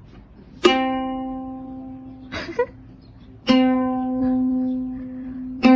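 A plucked string instrument sounding the same single note three times, each note ringing out and slowly fading. Between the first two notes there is a brief scratchy sound.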